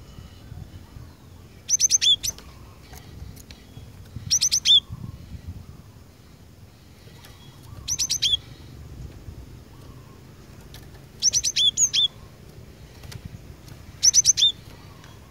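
Cinereous tit (glatik batu) calling in five short, loud bursts of quick high notes, each burst about half a second long and ending on a lower note, repeated every two to three seconds.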